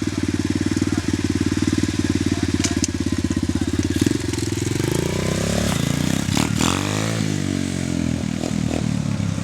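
Dirt bike engine idling steadily, then revving up about four seconds in as the bike pulls away, its pitch climbing, dipping and climbing again.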